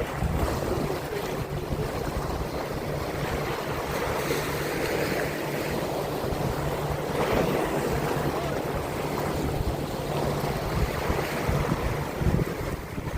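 Wind buffeting the microphone over water sloshing around a boat, with a steady low hum underneath.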